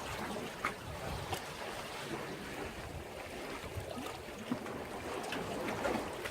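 Sea waves washing and splashing against a breakwater, a steady wash with a few short, sharp splashes.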